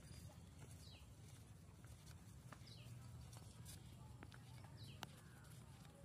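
Quiet outdoor ambience: a bird gives a faint, short, high falling chirp every second or two over a low steady hum, with a single sharp click about five seconds in.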